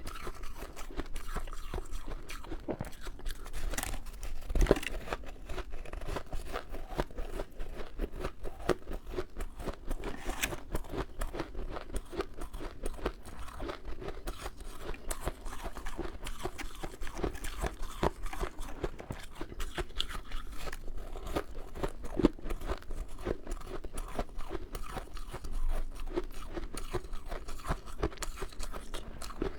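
Close-miked crunching and chewing of powdery freezer frost ice in the mouth, a steady run of soft, crackly crunches with a few louder bites.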